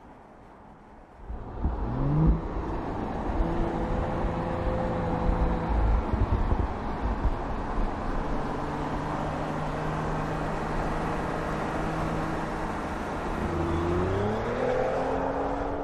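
Audi S5 Sportback's V6 engine pulling under acceleration, over tyre and road noise. After a quiet first second its pitch rises, holds fairly steady, then climbs again near the end.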